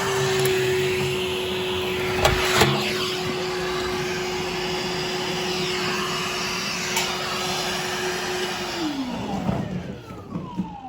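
Motor of a vacuum or blower running steadily, with a couple of knocks a little over two seconds in. It is switched off near the end and winds down in pitch.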